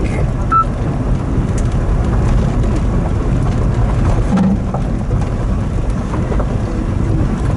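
Steady low rumble of a Daihatsu Hijet kei truck on the move, engine and road noise, with a brief high tone about half a second in.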